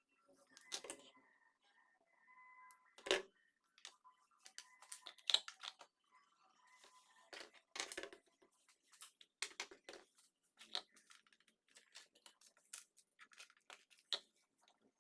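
Irregular small clicks, taps and light scrapes of hand work with small tools and parts, the sharpest knock about three seconds in.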